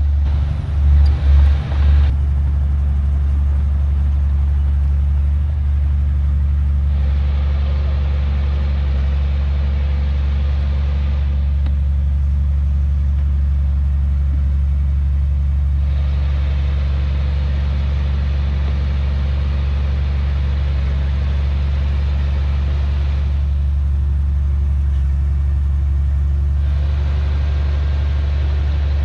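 A heavy diesel engine of earthmoving machinery runs steadily with a deep drone. A few loud thumps come about a second in, and a higher rushing noise rises and falls in stretches of several seconds over it.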